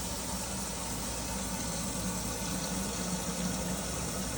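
Steady hiss of running water with a low, even hum underneath, no breaks or knocks.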